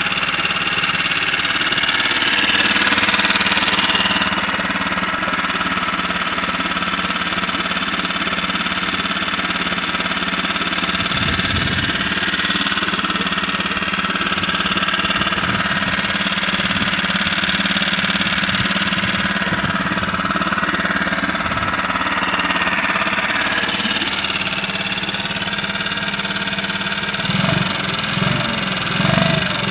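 Sea-Pro 5 hp four-stroke outboard motor running on its first start after winter storage. The revs rise briefly about two to four seconds in, then it runs steadily. A few irregular low thumps come near the end.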